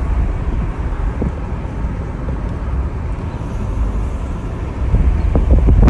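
Steady low rumble of a car driving on a road, heard from inside the cabin, with a few light knocks near the end.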